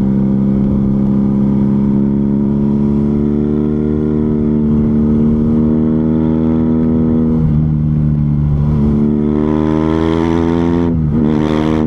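BMW R nineT Scrambler's boxer twin running through a Zard aftermarket exhaust, pulling under acceleration with its pitch slowly rising. It shifts up twice, about seven and a half seconds in and again near the end; the pitch drops at each shift and climbs again.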